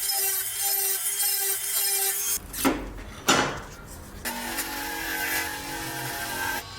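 Hand sawing or rasping of wood in even strokes, about two a second. Just past the middle come two long sweeping strokes, and then a steadier mechanical whir with a held pitch takes over.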